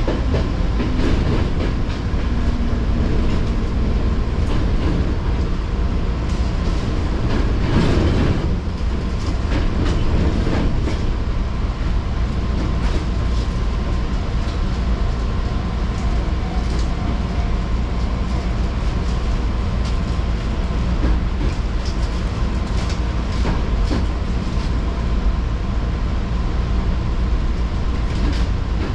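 Fujikyuko Line train running, heard from inside the carriage: a steady low rumble with the wheels clicking over the rail joints, and a thin steady tone above it. About eight seconds in there is a brief louder rush.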